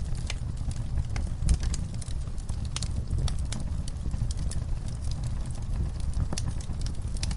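Wood fire burning in a fireplace: logs crackling with irregular sharp pops, a few louder than the rest, over a steady low rumble of the flames.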